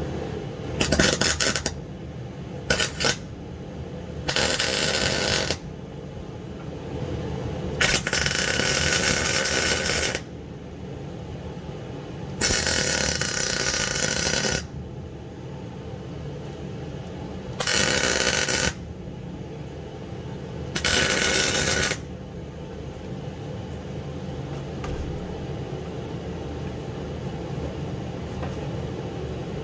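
Welder striking an arc in about seven separate bursts of crackling hiss, a fraction of a second to about two seconds each, while welding nuts onto broken, rusted-in bolts to get them out. A steady low hum runs underneath.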